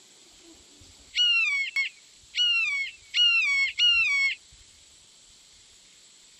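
A bird calling loudly and close by, four clear, high calls in about three seconds, each dropping sharply in pitch at its end.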